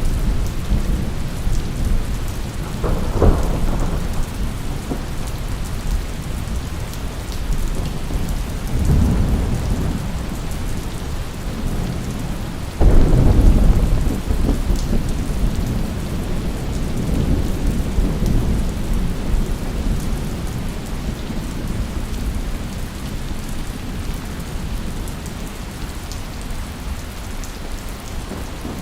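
Steady heavy rain with rolling thunder: a sharp crack about three seconds in, then a sudden loud rumble about thirteen seconds in that slowly dies away.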